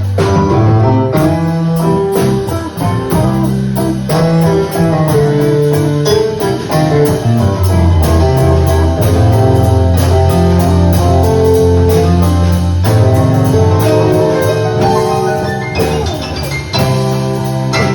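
Live band playing an instrumental passage: guitar chords over a bass line, with drums keeping a steady beat on the cymbals.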